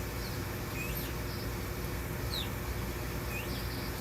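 A small songbird chirping, short high chirps about once a second, over a steady low hum.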